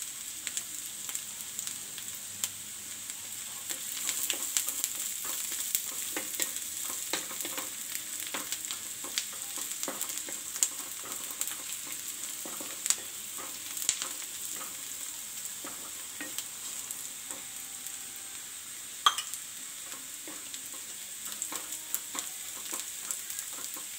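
Chopped onion and sweet corn sizzling in oil in a nonstick frying pan, stirred with a wooden spatula that scrapes and taps against the pan in scattered clicks. One sharper knock of the spatula comes late on.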